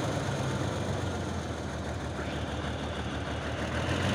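Heavy truck's diesel engine running steadily at low revs, a deep even rumble.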